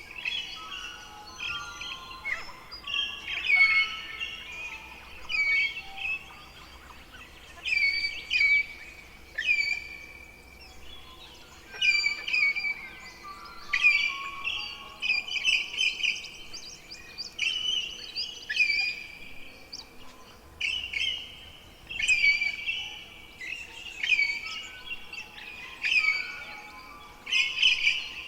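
Forest songbirds singing, one bird repeating a short, high phrase about every two seconds over fainter song from others.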